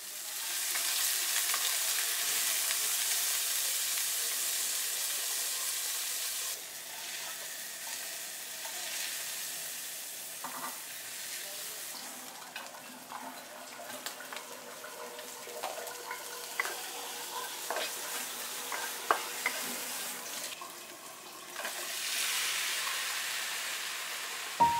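Shrimp frying in hot oil in a wok: a strong sizzle for the first several seconds, then a quieter sizzle with a wooden spatula scraping and knocking against the pan as it is stirred. The sizzle swells again near the end.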